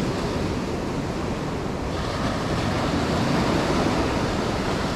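Ocean surf washing onto the shore in a steady rush, with wind blowing on the microphone.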